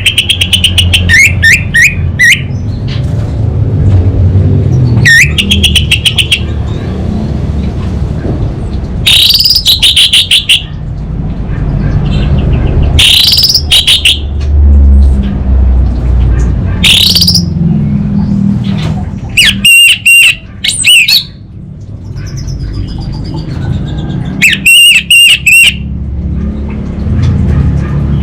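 Orange-headed thrush singing loud, rapid, chattering phrases in short bursts every three to four seconds, over a steady low rumble.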